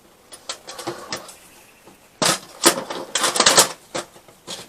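Hard parts being handled and turned round on a workbench: a few light clicks, then a quick run of knocks and clatters in the middle.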